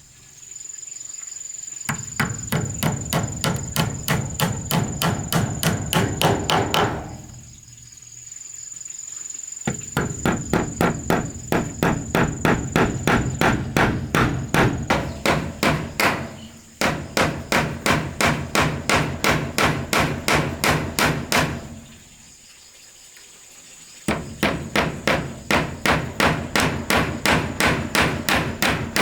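Hammering: quick, even blows at about three a second in several long runs, with short pauses between runs. Insects keep up a steady high buzz behind.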